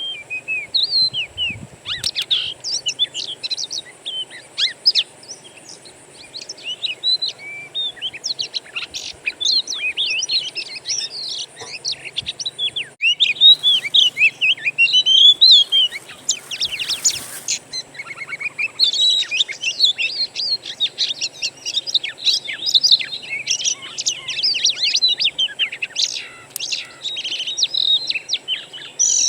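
Wild songbirds chirping and whistling in a dense, overlapping chorus of quick, varied phrases, with a faint steady high-pitched whine behind them and a momentary break about 13 seconds in.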